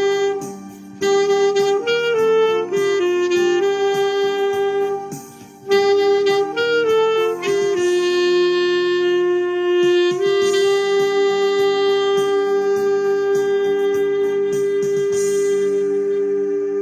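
Clarinet playing a slow melody over a backing track, ending on a long held note that starts about ten seconds in and stops near the end.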